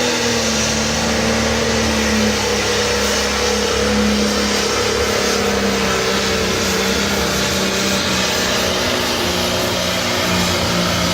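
Modified International 1066 pulling tractor running flat out under heavy load, a loud, steady engine note with a haze of exhaust and turbo noise. Its pitch sags slightly as the pull goes on.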